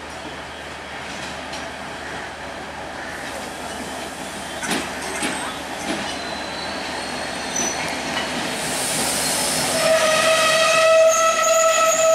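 A train approaching on the line, its rumble growing steadily louder, with a few clicks of wheels over rail joints about five seconds in. Near the end a diesel locomotive's horn sounds one long steady note that carries on.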